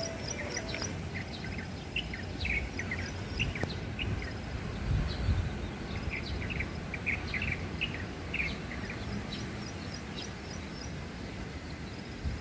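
Small wild songbird known locally as the klik-klik bird, singing in short quick chirps, with runs of rapid high ticking notes. Steady low background noise runs beneath, with a brief louder low rumble about five seconds in.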